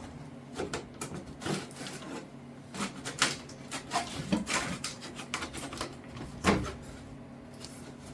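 Irregular light knocks, clicks and scrapes from a sheet of material being handled and pushed into place against a fiberglass body panel, one sharper knock about six and a half seconds in, over a steady low hum.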